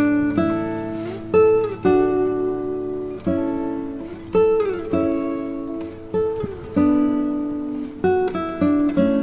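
Music on a plucked string instrument: single notes and chords struck every second or so, each ringing and fading, with a few notes sliding in pitch.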